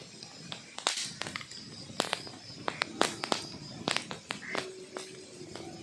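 Wood fire burning in a fireplace: logs crackling with irregular sharp pops and snaps over a soft steady hiss.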